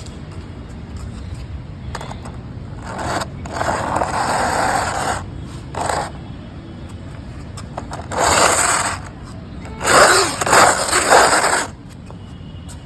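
Small toy train scraping along a surface in four bursts, the longest two a second or more each, over a low steady hum.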